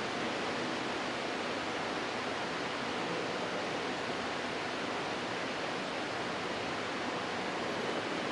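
Steady, even hiss with no distinct events, the background noise of the mosque recording during a silent part of the prayer.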